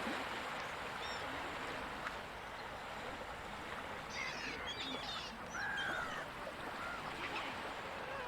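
Gulls calling over a steady wash of ocean surf, with a cluster of short calls about four seconds in and a longer arching call near six seconds.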